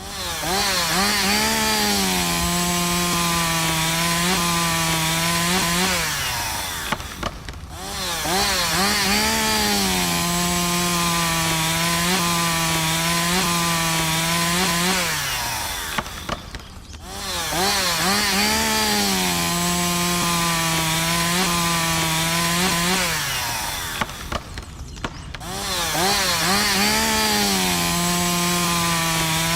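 Small power-tool motor running in four separate runs of about six seconds each. Each run starts with a quick rise in pitch, settles a little lower and steady while the tool works, then winds down before a short pause.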